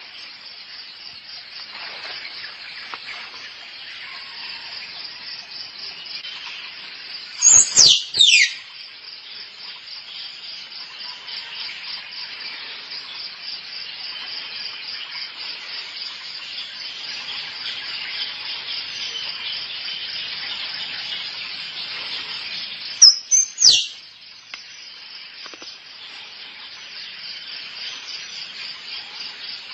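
Squirrel mating calls: short clusters of sharp, loud, falling whistle-like notes, two or three at a time, about eight seconds in and again about twenty-three seconds in. A steady high insect buzz runs underneath.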